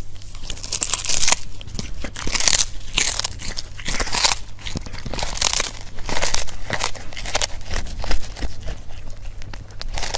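Crunchy food being bitten and chewed close to the microphone: irregular, crackly crunches, roughly one every half second to a second.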